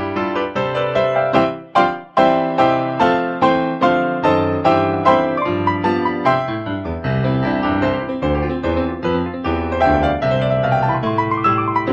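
Piano playing a flowing piece: a steady stream of single notes over held low chords, with a rising run of notes near the end.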